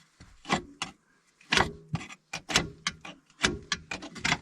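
Socket ratchet and metal parts clicking in short irregular bursts as a bolt on a shock absorber mount is worked in.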